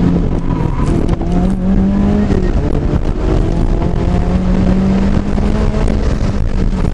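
2006 Subaru Impreza WRX STI's turbocharged flat-four engine, heard from inside the cabin, driven hard on a timed run: its note holds steady for a second or more at a time and dips between as the revs rise and fall.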